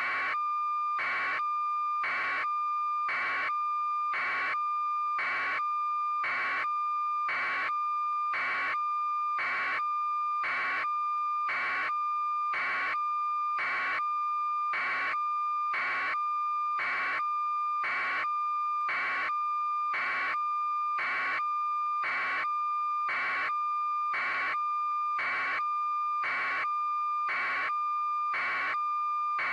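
Electronic beeping: a steady high tone with a beep pulsing about once a second, evenly and without change.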